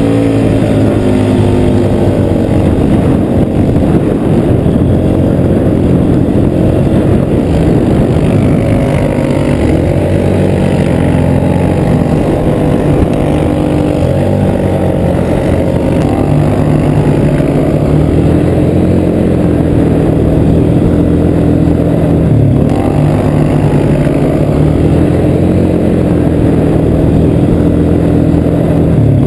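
Polaris Sportsman 850cc parallel-twin engine in a go-kart running loudly, its engine speed rising and falling with the throttle throughout, with a brief dip about 22 seconds in.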